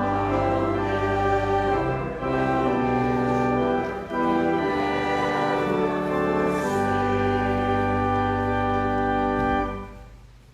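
Organ playing held chords, ending on a final chord about nine and a half seconds in that dies away in the room's reverberation.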